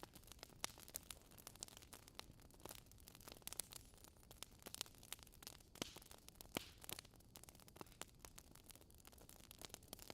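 Wood fire crackling in a fireplace: burning logs give off irregular small pops and snaps over a soft hiss.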